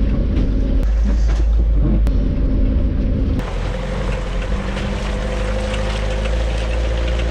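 Suzuki Vitara 4x4 engine running hard as it drives off-road, with a heavy low rumble. About three and a half seconds in, the sound changes to a steadier engine note with a higher whine over it.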